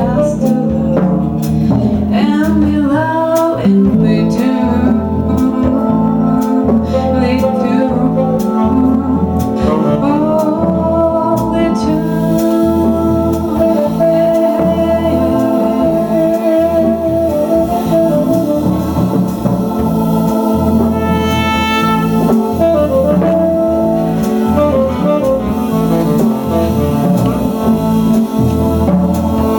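Live jazz band playing, with a melody line that bends in pitch over a moving bass line and sustained chords.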